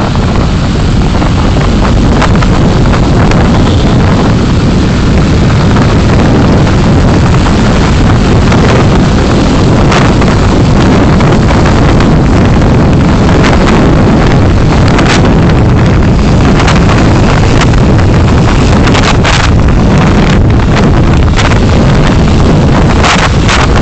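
Car driving, heard through a dashcam's microphone: loud steady road and wind rumble, with scattered short clicks and knocks from about ten seconds in.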